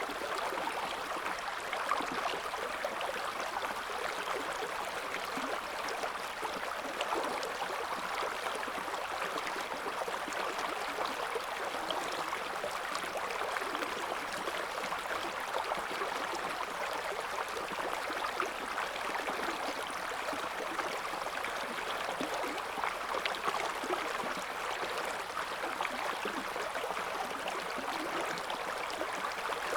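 Shallow river flowing steadily, water babbling and splashing over stones.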